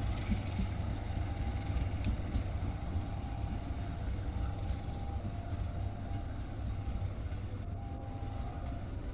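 A passenger train rolling away over curved track: a steady rumble of wheels on the rails, growing slightly fainter as the last coach recedes.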